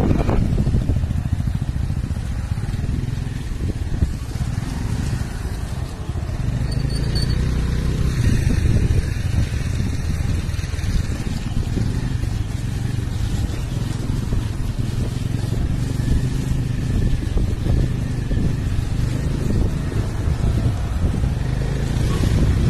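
Motorcycle engine running steadily on the move, a constant low hum, with road and wind noise over it.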